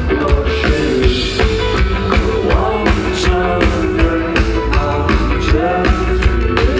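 Live rock band playing an instrumental passage: a drum kit driven by rapid double-bass-pedal kicks and cymbal strikes under sustained distorted electric guitar chords.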